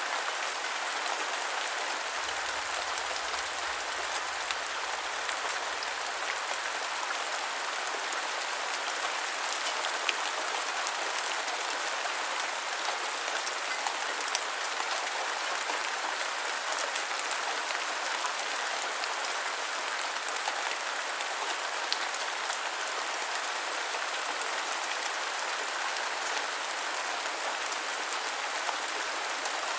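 Steady rain with scattered individual drop ticks.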